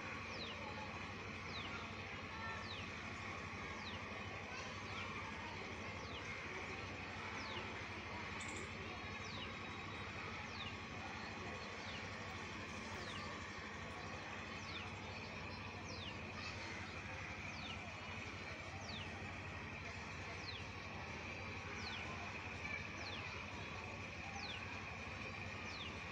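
A bird calling a short, high, falling note over and over, about once a second, over a steady background hiss.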